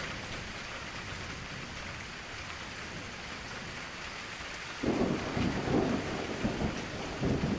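Steady rain hiss, then a sudden low rumble of thunder about two thirds of the way in that crackles and surges again near the end.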